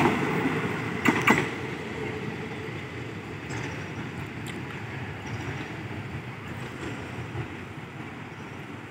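Passenger coaches of a departing train rolling past, with two sharp wheel clacks over rail joints about a second in, then the rumble of the train fading as it pulls away.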